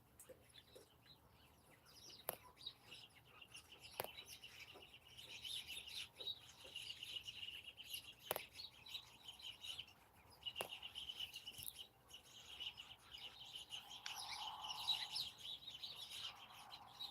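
Many small birds chirping rapidly and steadily at dusk, faint, thickening about a quarter of the way in, with a few sharp clicks scattered among the calls.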